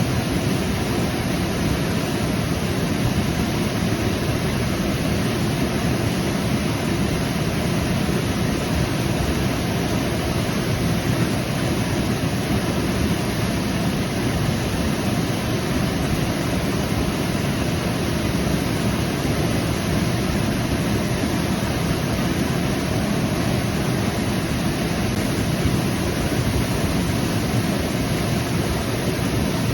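Waterfall: water pouring and rushing steadily, a constant deep hiss.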